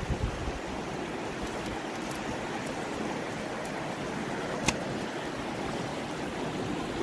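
Fast river water rushing steadily, with a single sharp click about four and a half seconds in.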